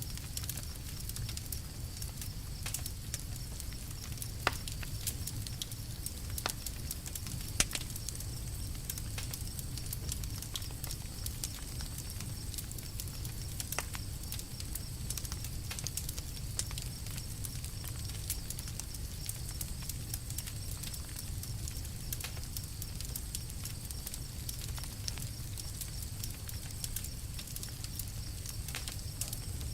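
Wood campfire crackling: a steady low rush of burning with a scatter of small crackles and two sharper pops of the wood about four and seven seconds in.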